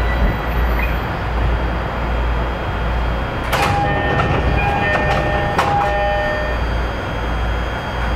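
Narita Line train running, with a steady rumble of wheels on the rails. About three and a half seconds in, a brief cluster of metallic clangs and ringing tones lasts about two seconds.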